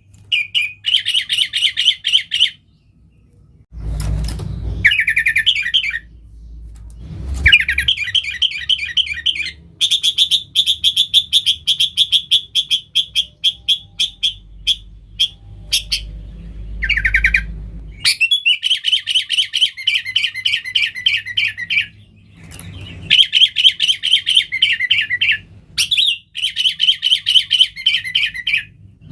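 Sooty-headed bulbul (kutilang) in full song: rapid chattering runs of quick repeated notes, in phrases of a few seconds broken by short pauses. A low rumble sits underneath through roughly the first half.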